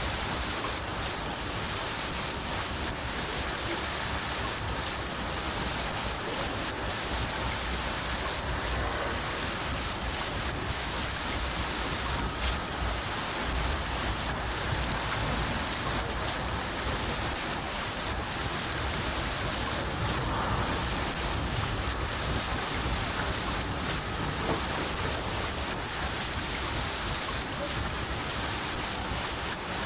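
A cricket chirping steadily, about three high chirps a second, with one short break near the end, over the even hiss of steady rain and a low rumble of thunder.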